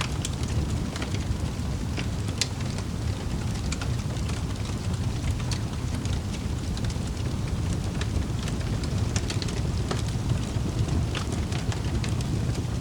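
Wood fire in a fireplace burning, with a steady low rumble of flames and frequent sharp crackles and pops at irregular moments.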